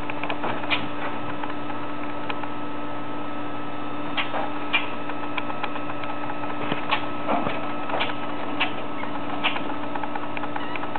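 A steady machine hum with a few fixed tones, with light ticks and taps scattered through it, about a dozen in all.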